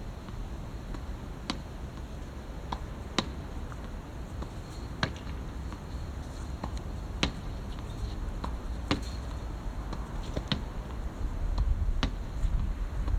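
Sharp single clicks, about one every one and a half to two seconds, over a steady low rumble.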